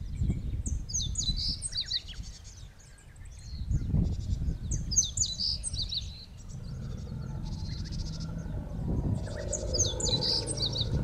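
A songbird singing a phrase of quick high chirps and trills three times, about every four seconds, over wind rumbling on the microphone.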